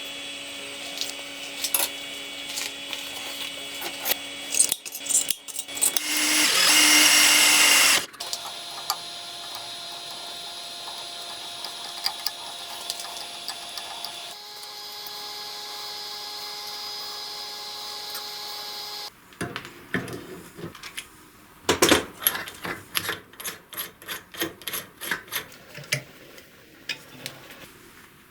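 Workshop power tools running steadily, the tone changing abruptly several times, with a loud two-second burst of a tool cutting into material about six seconds in. In the last third this gives way to rapid, irregular scraping and clicking strokes of hand work on metal.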